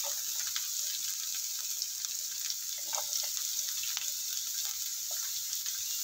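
Chopped onion sizzling in hot coconut oil in a frying pan: a steady hiss with a few faint scattered crackles.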